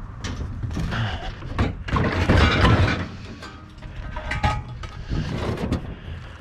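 Scrap metal clattering and banging as pieces are handled and loaded onto a trailer: a run of irregular knocks and clanks, with a louder clatter about two seconds in and a brief metallic ringing later on.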